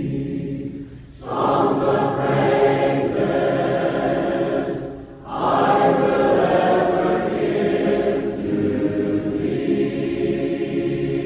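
Congregation singing a hymn in unison and parts, unaccompanied in the Church of Christ a cappella style, with short breaks between phrases about a second in and again about five seconds in.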